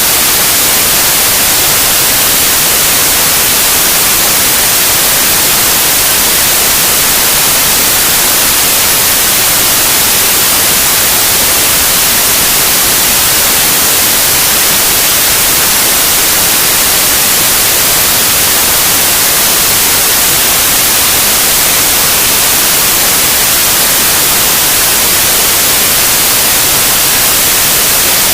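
Loud, steady white noise: an even, unchanging hiss.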